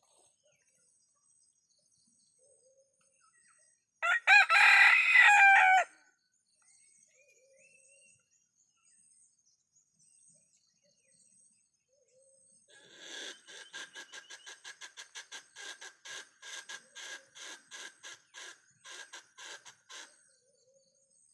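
Village chicken (ayam kampung) rooster crowing once, loudly, for about two seconds, followed several seconds later by a long fast run of clucks, about three or four a second, that stops near the end.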